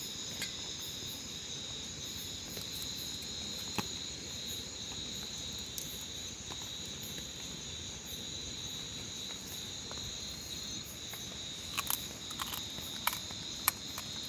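Night insects, crickets among them, chirring steadily in several high, even tones. A few sharp clicks come near the end.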